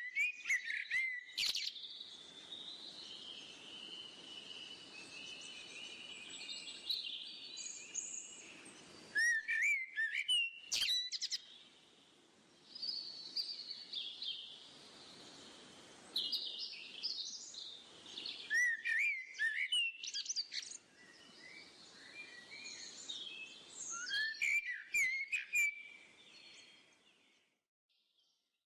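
Small birds singing outdoors: a busy, continuous run of chirps and trills, with short sliding whistled phrases breaking in every few seconds, fading out near the end.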